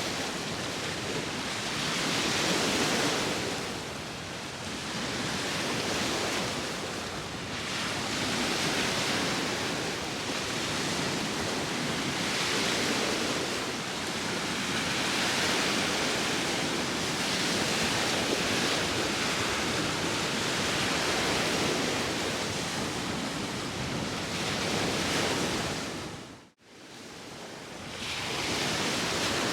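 Sea waves washing onto a shore, the surf noise swelling and ebbing every few seconds, with wind over it. Near the end the sound dips away almost to nothing for a moment and then swells back in.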